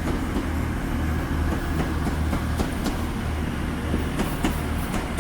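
Class 185 diesel multiple unit pulling out, its underfloor diesel engines giving a steady low hum, with a few sharp clicks over it.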